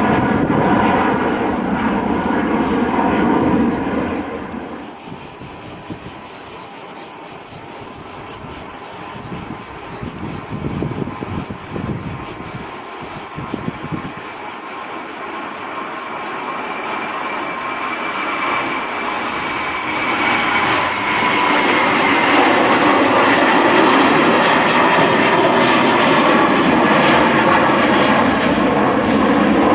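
Jet airliner engines running as the aircraft passes: a continuous loud noise with a high whine that glides slightly down in pitch and grows louder in the last third.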